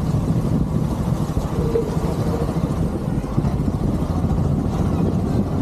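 Motorcycle engine running steadily while riding, mixed with a low, even rumble of wind and road noise.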